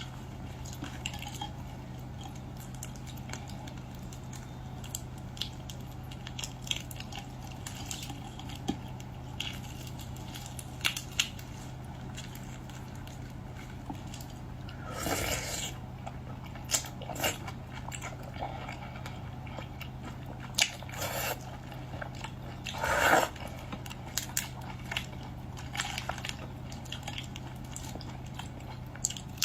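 Close-miked eating of butterflied shrimp: scattered small bites, crunches and wet chewing clicks, with two louder, longer mouth noises, one midway and one about three quarters through. A steady low hum runs underneath.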